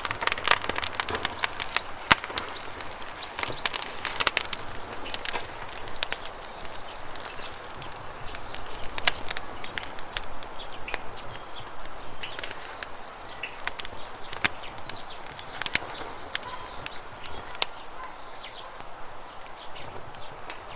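Wood campfire crackling, with many sharp irregular snaps and pops, densest in the first few seconds, over the steady rush of flowing river water. A few faint bird chirps come through in the middle.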